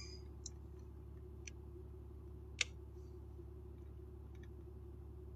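Quiet, steady low hum inside a vehicle cabin, with a few faint, short clicks, the sharpest a little past halfway.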